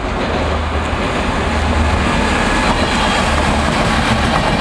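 Train running past at speed: a loud, steady rumble with rail noise.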